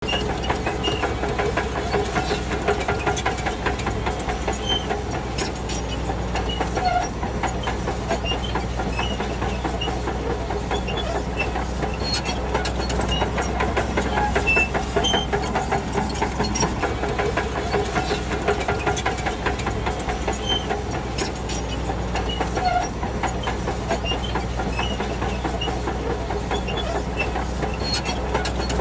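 Shantui DH17C2 crawler bulldozer's diesel engine running steadily under load, with the clatter of its steel tracks as it pushes soil.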